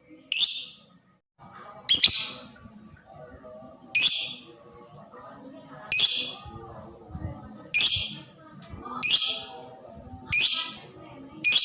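Lovebird giving a regular series of short, shrill calls, eight in all, about one every one and a half seconds: the excited 'fighter' calling used as a lure to set other lovebirds calling.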